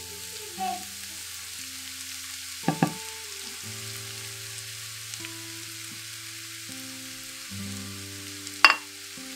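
Grated cabbage frying in oil in a cast-iron skillet, a steady sizzle, as a spatula stirs it. The spatula knocks against the pan twice in quick succession about three seconds in and once more, loudest, near the end.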